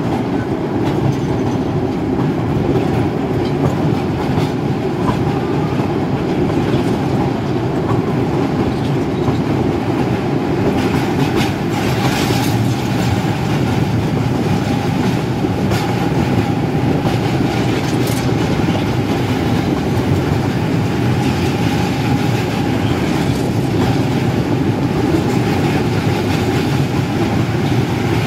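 Narrow-gauge Kangra Valley Railway coach running over a steel bridge: a loud, steady rumble of wheels on rails with a faint steady ring and occasional clicks of the wheels over rail joints.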